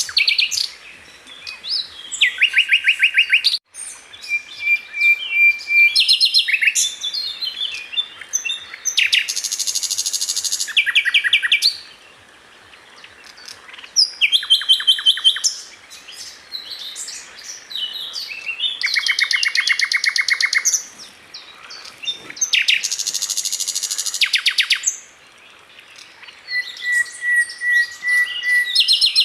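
A sikatan londo flycatcher singing a long varied song: bursts of rapid, evenly spaced rattling trills and sharp chips broken by short pauses, with a thin held whistle about four seconds in and again near the end.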